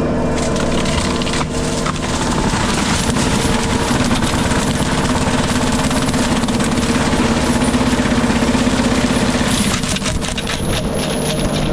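JCB Teleskid compact track loader's diesel engine running hard while its FECON forestry mulcher head grinds through brush and small trees, a steady engine drone under dense crackling and rattling of chewed wood. The cracking gets busier about ten seconds in.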